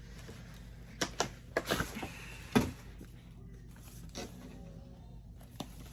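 A handful of short clicks and knocks from small objects being handled and set down. The loudest comes about two and a half seconds in, over a faint steady room hum.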